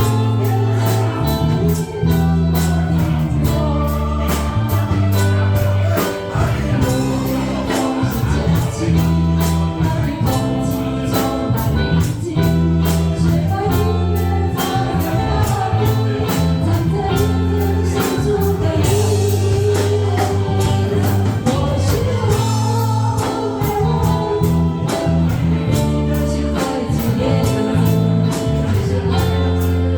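A singer performing a Mandarin pop-rock ballad over instrumental accompaniment, with a steady beat and a prominent bass line.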